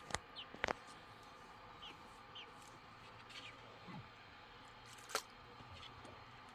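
Three short, sharp clicks or knocks, two close together near the start and one about five seconds in, over a faint steady background, with a few faint short high chirps between them.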